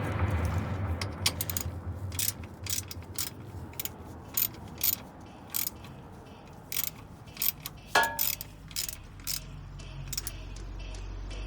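Hand ratchet with a socket clicking in short, uneven runs as a bolt is worked on the suspension, with one ringing metal clink of a tool about eight seconds in.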